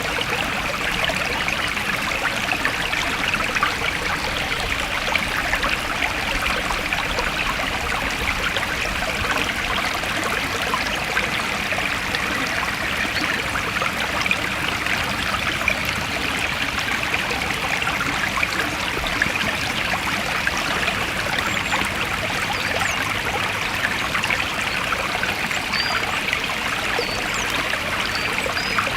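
Forest stream running steadily, a continuous babbling flow of water. A few faint, high, short chirps come in near the end.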